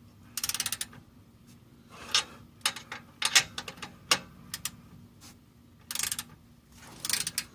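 Socket ratchet clicking in short bursts of rapid ticks with a few single metallic clicks between, as it tightens the nuts of an exhaust pipe clamp.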